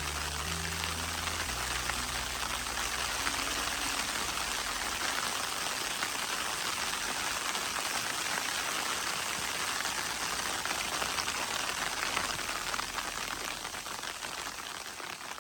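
Dense, steady crackling hiss of a fire-and-snowfall ambience, fading out near the end. A few low music notes die away in the first couple of seconds.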